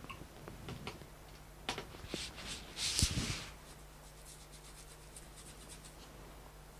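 Faint rubbing and scratching on watercolour paper as paint is lifted out, with a sharp click a little before two seconds in and a short scratchy scrub about three seconds in, then light ticks.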